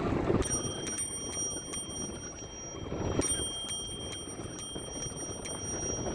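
Bicycle bell rung in two runs of quick ringing dings, four and then six, about two a second, over wind rushing past the microphone.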